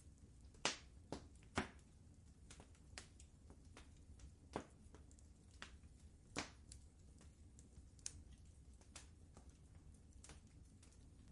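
Wood fire crackling in a fireplace: irregular sharp pops and snaps, a few of them louder, over a faint low steady rumble.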